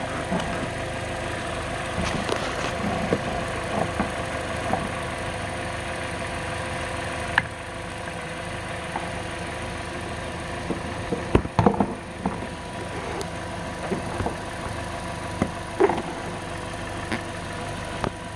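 Toyota Corolla four-cylinder engine (Dual VVT-i) idling steadily and smoothly, heard up close from the engine bay. A few sharp knocks break in, the loudest about twelve seconds in.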